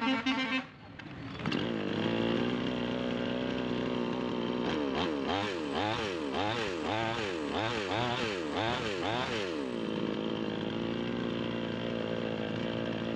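Two-stroke chainsaw engine coming up to speed about a second and a half in and idling. It is then revved and released about eight times in quick succession before settling back to a steady idle: the saw runs after its hard-starting repair. A brief pitched tone sounds at the very start.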